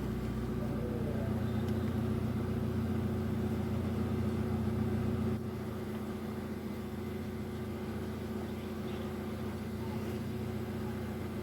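Hyundai i10's Kappa four-cylinder petrol engine idling steadily and evenly. It is running smoothly now that water has been cleaned out of its spark plugs and plug wires, which had caused a misfire. The level drops slightly about five seconds in.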